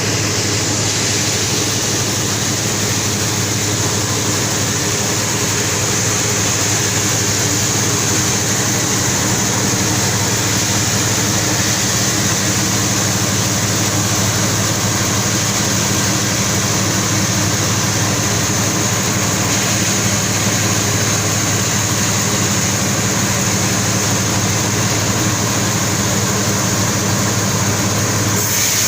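Sawmill saw and its engine running steadily while cutting a very large albasia log, with a constant hum under a broad hiss of the blade in the wood. The saw is straining under the log's heavy load.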